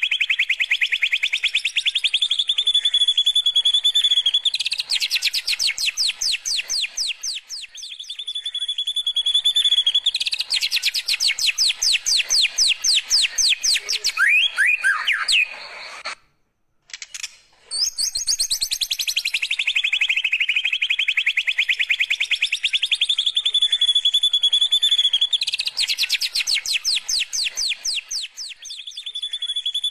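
White-rumped shama (murai batu) singing canary-style song: fast rattling trills alternate with a held high whistle. The song breaks off briefly about halfway through, then the same sequence of phrases repeats.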